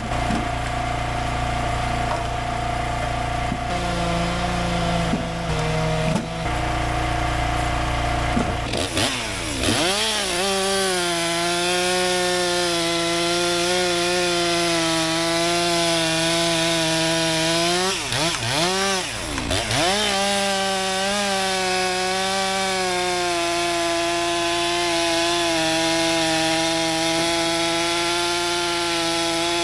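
A STIHL chainsaw idling, then revving up to full throttle about a third of the way in and cutting steadily through a log. It eases off and revs back up twice near the middle, then carries on cutting.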